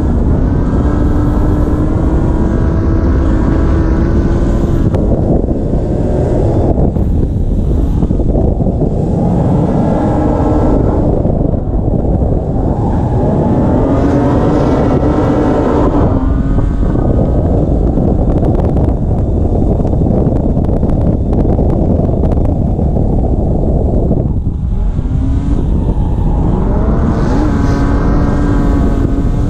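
BMW S54 straight-six held at high revs through long drifts, its pitch rising and falling, with a short drop several times as the throttle comes off or a gear changes. Heavy low wind rumble on the hood-mounted microphone runs under it.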